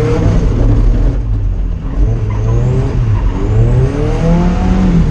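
Drift car's engine revving hard, its pitch repeatedly climbing and falling as the throttle is worked, with a brief lift off the throttle about a second in.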